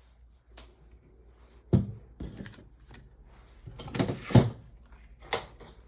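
Knocks and clacks of stamping supplies being handled on a tabletop, a handful of separate strikes with the loudest cluster a little past the middle.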